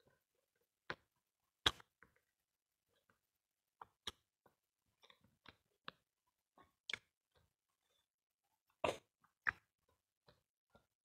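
Faint mouth sounds of eating chewy cilok tapioca balls in spicy sauce: sparse short smacks and clicks of chewing, one every second or so, a few louder than the rest.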